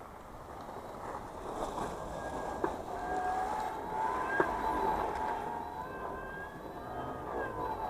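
Electric mobility scooter's drive motor whining as it runs, its pitch creeping up and easing off near the end, with two sharp clicks along the way.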